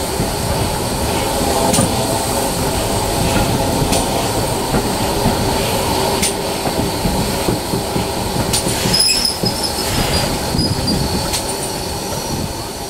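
Heritage railway coach in a train hauled by GWR Prairie tank 5521 rolling slowly out of a station, with a steady rumble of wheels on the track and sharp clicks every second or two. A faint high wheel squeal comes in about nine seconds in and fades a couple of seconds later.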